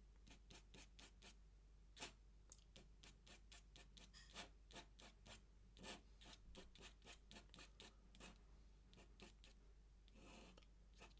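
Faint pen strokes on paper: an ink pen making short, quick scratchy strokes, two to three a second, with one longer stroke near the end.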